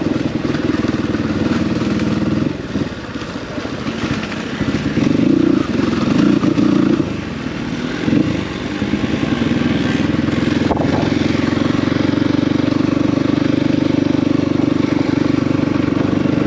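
Dirt bike engine running while riding, the throttle opening and easing off a few times, then holding steadier from about eight seconds in.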